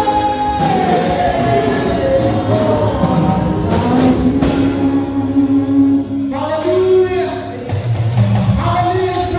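Live gospel worship music: a singer holding long sung lines over a band with a drum kit.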